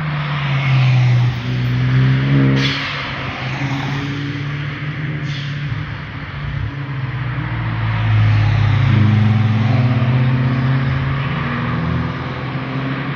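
Car engine and exhaust of a passing car, its pitch rising and dropping as it goes through the gears. There is a sharp crack about two and a half seconds in and a fainter one a few seconds later.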